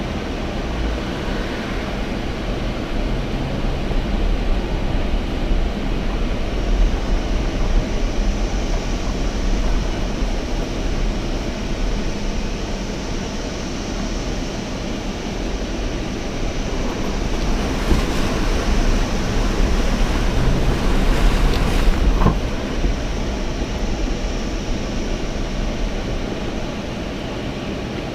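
Off-road 4x4's engine running under load as it drives through the obstacle, with a steady low rumble that swells twice. There are a couple of brief knocks about 18 and 22 seconds in.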